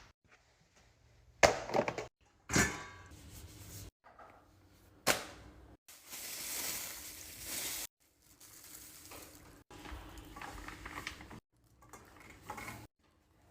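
Containers and packaging handled while a fridge is restocked: a few sharp clicks and knocks, a hiss lasting about two seconds near the middle, and softer rustling and tapping after it.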